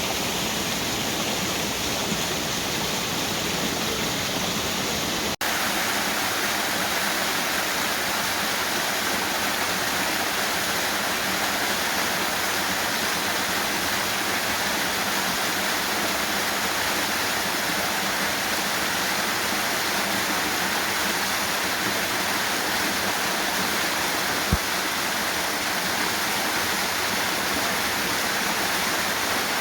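Waterfall rushing steadily, a full, even roar of falling water. About five seconds in it changes abruptly to a brighter, thinner rush, as from a different fall, and one short click comes late on.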